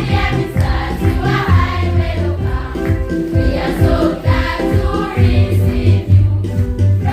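A choir singing a worship song in several voices over a pulsing bass line.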